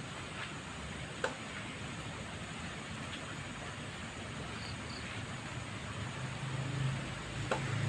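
Steady hiss of rain, with two sharp clicks and a low engine hum building near the end.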